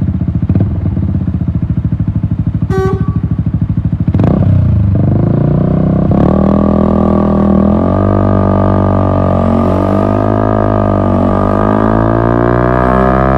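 Yamaha MT-125's single-cylinder four-stroke engine through an Akrapovic exhaust, first pulsing at low revs. About four seconds in the revs climb as the bike pulls away, and the engine then holds a steady higher pitch that rises and falls gently. A short high beep sounds near the three-second mark.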